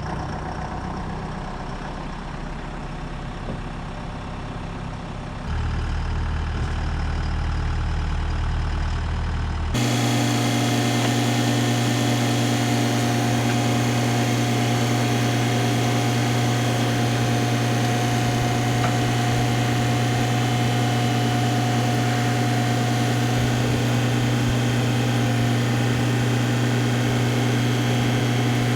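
A vehicle engine running steadily. About ten seconds in, the sound changes abruptly to a louder, even engine drone with a strong low hum.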